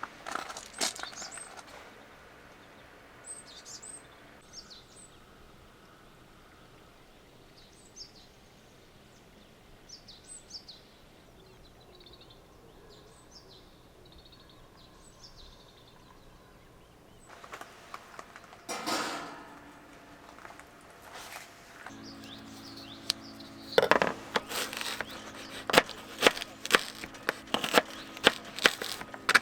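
Small birds chirping in short, high, repeated calls, followed in the second half by a faint steady hum and a run of sharp knocks, clicks and rustling as things are handled.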